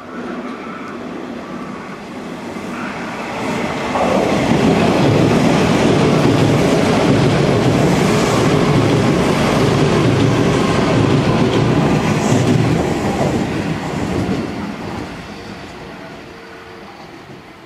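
Hanshin 1000 series electric train passing through a station: its running noise builds over the first few seconds, stays loud for about ten seconds, then fades away.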